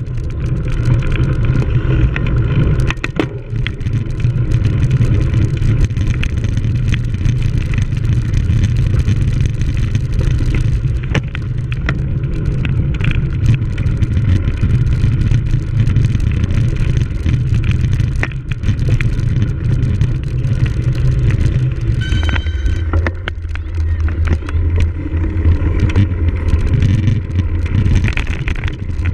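Steady low rumble of wind and riding noise on the camera of a cyclocross bike being raced, with scattered knocks and rattles from the bike over rough ground.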